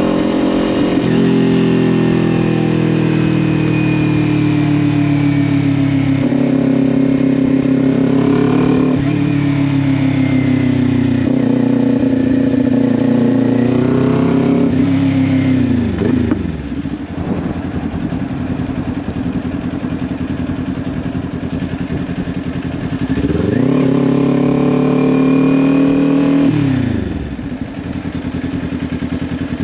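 Kawasaki Ninja 400 parallel-twin engine through a Leo Vince LV10 slip-on exhaust, riding and revving up and down several times. It drops to a low idle about halfway through, pulls up again a few seconds later, then falls back to idle near the end.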